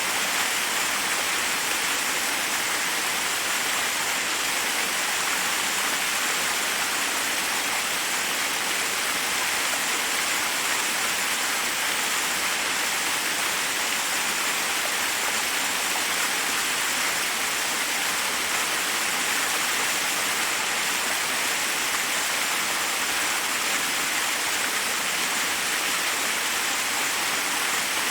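Forest waterfall: water rushing steadily over rocks, an even, unbroken hiss with most of its weight in the upper range and little low rumble.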